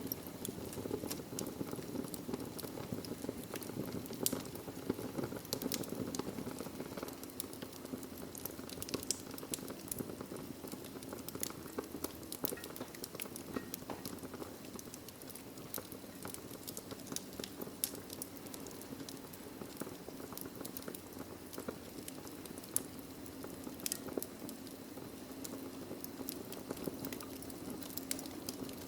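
Wood fire burning in a fireplace: logs crackling with frequent irregular sharp pops over a steady low rush of flame.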